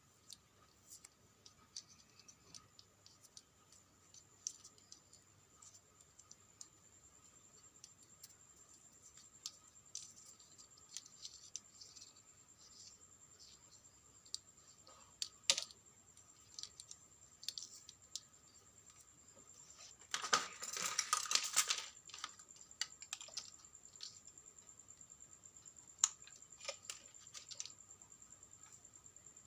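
Scattered small clicks and taps of hands working on a portable vacuum cleaner's plastic parts and tools, with a short scraping rattle about twenty seconds in, over a faint steady high whine.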